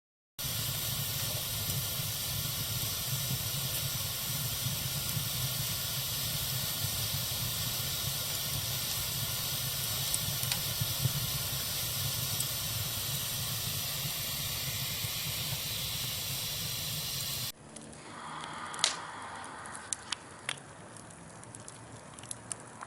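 Campfire burning: a steady rushing hiss of flames for most of the time, then an abrupt change to a quieter fire with scattered sharp crackles and pops near the end.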